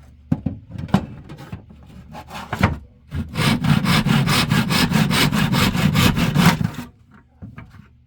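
Hand saw in a miter box cutting the tail off a turned wooden lure blank: a few knocks as the piece is set and the cut started, then quick even saw strokes, about four a second, which stop abruptly as the cut goes through.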